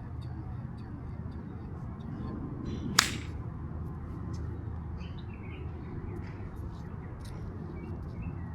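A golf iron swung with a short swish that ends in one sharp crack as the clubface strikes the ball, about three seconds in. Birds chirp faintly throughout.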